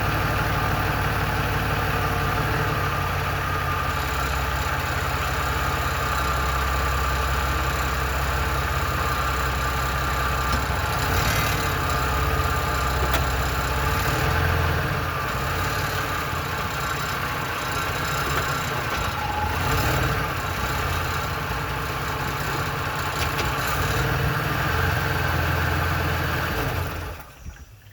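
1997 Ford F-150's 4.2 L V6 engine idling steadily with a rattle, a noise the owner hears only when the truck is in drive or reverse. The sound drops away abruptly near the end.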